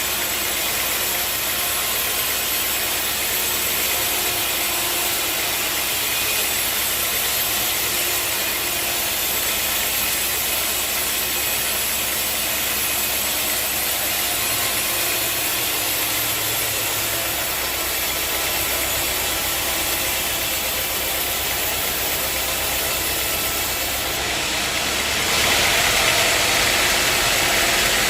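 Sawmill machinery running steadily. Near the end it gets louder, with a brighter hiss.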